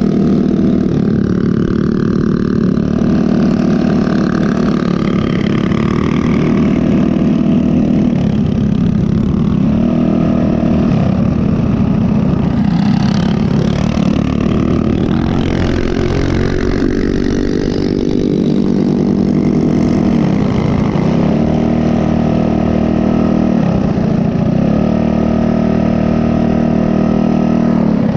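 Mini bike's small single-cylinder four-stroke engine running under way, its pitch rising and falling again and again as the throttle is opened and eased off.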